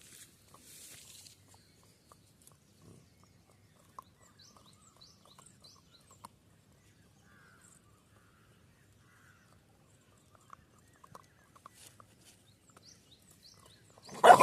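A three-month-old puppy: mostly quiet with faint clicks and a few short high chirps, then a loud, brief vocal outburst just before the end.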